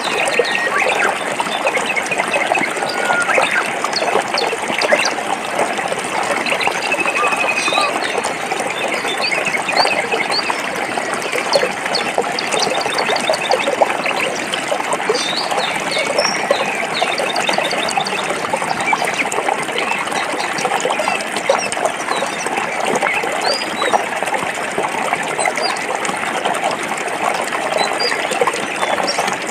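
Stream water flowing steadily over rocks, with many small splashes and trickles. Birds give short, high chirps now and then.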